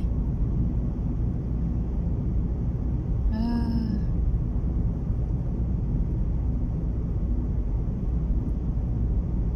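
Steady low rumble of a car driving at road speed, heard from inside the cabin, with strong wind pushing against the front of the car. About three seconds in, a brief pitched vocal sound, like a short hum, lasting under a second.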